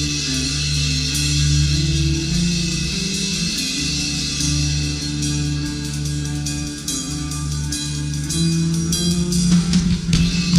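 Rock band playing an instrumental passage without vocals: sustained guitar chords over bass, with drum hits coming in more strongly near the end.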